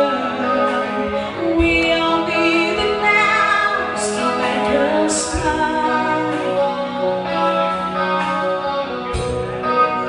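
Live rock band playing a song, with a woman singing over the instruments and drums and cymbals crashing now and then.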